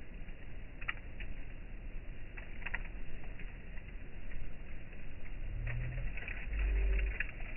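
Campfire crackling: scattered sharp pops and snaps over a low, rumbling background, with a few brief low-pitched sounds near the end.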